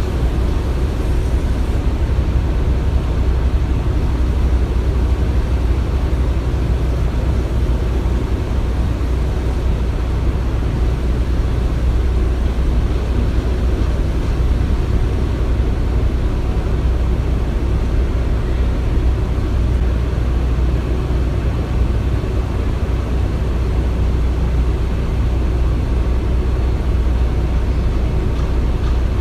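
Construction-site ambience: a steady, low machine rumble with no distinct knocks or bangs.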